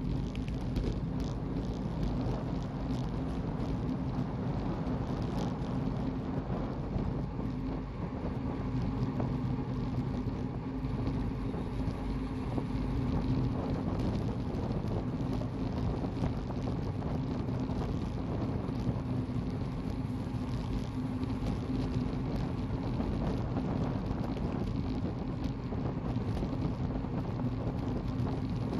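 Steady wind rushing over the microphone of a camera riding along in a bike race, over a low road rumble and a steady low hum.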